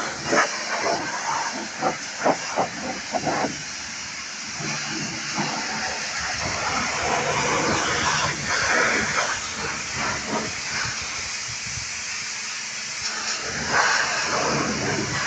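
Steady hiss of a high-pressure water jet spraying, with several sharp knocks in the first few seconds.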